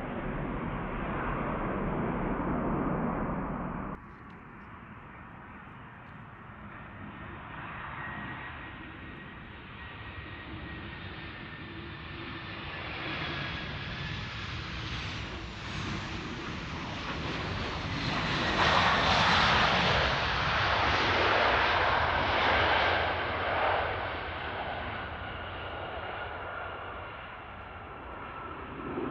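Jet engine noise of another airliner cuts off abruptly about four seconds in. Then a Boeing 737-800 with CFM56 engines is heard arriving to land: its jet noise with a faint whine that slowly drops in pitch builds up, is loudest a little past the middle, and then eases off.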